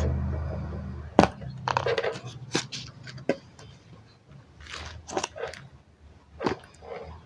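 Small objects and plastic being handled: a scatter of sharp clicks and knocks with short rustles between them, after a low hum that fades out in the first second.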